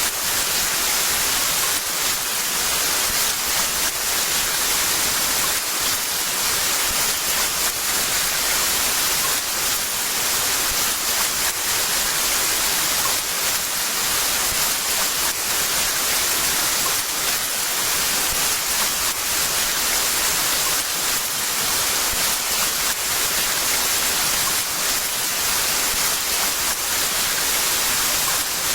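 Heavy rain falling steadily: a dense, even hiss with fine drop patter and no thunder.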